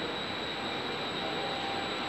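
Trenitalia double-deck regional electric train rolling slowly along a station platform: a steady running noise with a faint high whine.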